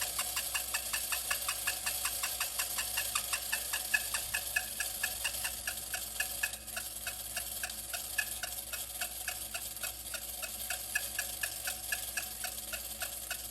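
Wind-up clockwork mechanism of a 1950s TPS tin mechanical flying birds toy running, its built-in voice chirping in a steady fast rhythm of about five short chirps a second, a little weaker in the second half.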